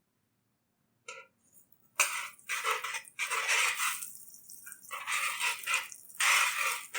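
Beef slices sizzling and crackling in a hot pot greased with beef tallow, starting suddenly about two seconds in and going on unevenly.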